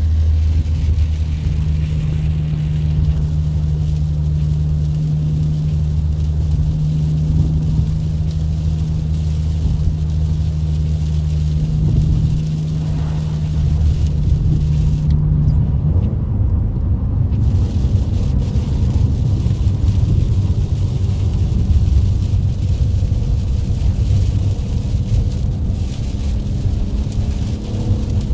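Car engine running under way, a steady low drone with a hum that drops out about halfway through, leaving a rougher low rumble.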